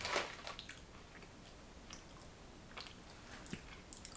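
Faint chewing of crunchy bhujia sev, fried gram-flour noodles, with a few soft crunches scattered through.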